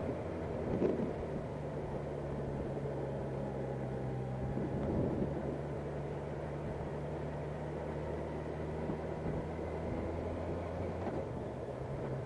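Motorcycle engine running steadily at low road speed in second gear, shifting up to third about eleven seconds in.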